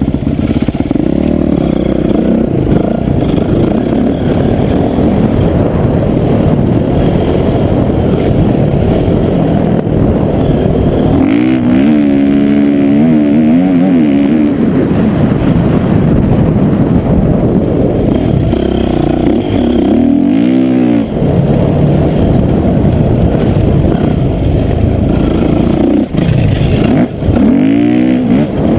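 Dirt bike engine running hard on a motocross track, its pitch climbing and dropping over and over as the throttle is worked and gears change, with clear rising revs about midway and again near the end.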